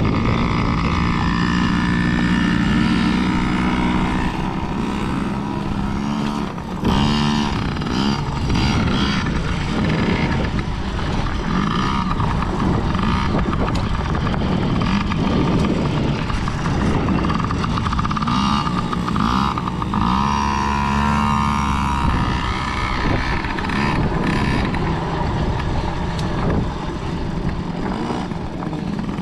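Dirt bike engines running, their pitch rising and falling as the throttles are blipped.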